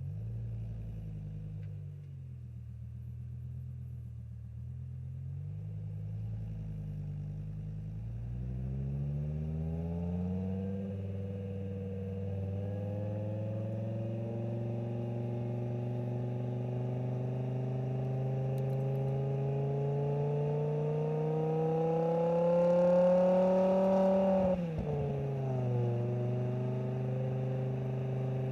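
BMW E60 M5's V10 engine running through an aftermarket exhaust. A low, wavering note for the first several seconds, then the pitch climbs steadily as the car pulls up through the revs. The revs drop sharply about 24 seconds in and the note settles to a steady drone.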